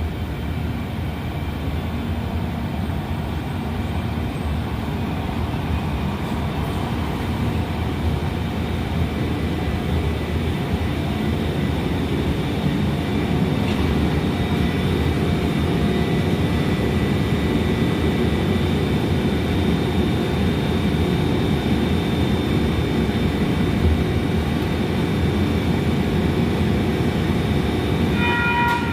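Light rail train running with a steady rumble that grows gradually louder, joined about halfway through by a thin high whine. A horn sounds right at the end.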